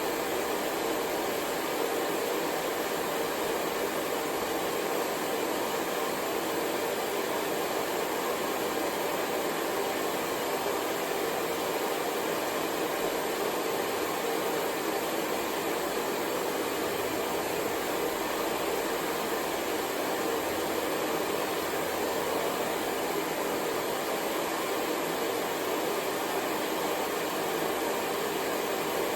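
Hair dryer running steadily: an even rush of blown air with a faint motor hum, unchanging.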